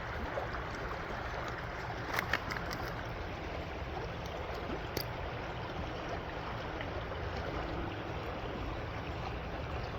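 Steady rushing of a flowing creek, with a quick cluster of sharp clicks about two seconds in and one more sharp click about halfway through.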